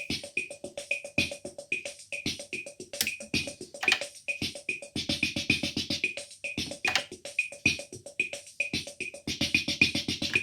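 Roland CR-68 CompuRhythm analogue drum machine playing a rhythm pattern of clicks and short pitched blips, with two stretches of rapid, denser hits. It stops suddenly at the very end.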